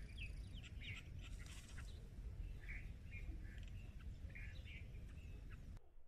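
Small songbird chirping: short, high chirps repeated irregularly over a low steady rumble. The rumble drops away suddenly just before the end.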